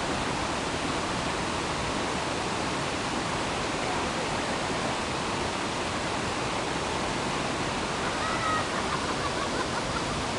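Waterfall rushing: a loud, steady wash of falling water with no letup.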